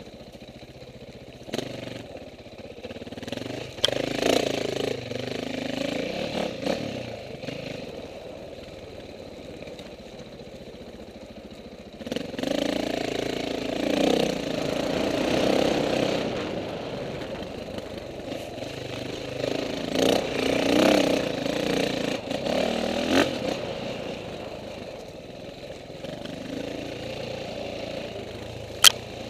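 Off-road dirt bike engines revving up and down as they race past, in three spells with quieter running between, the pitch rising and dropping with throttle and gear changes. One sharp click near the end.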